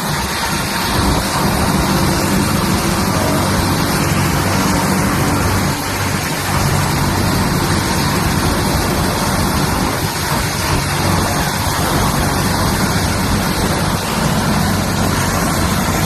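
Helicopter running close by, its turbine and rotor making a loud, steady noise with a low hum throughout.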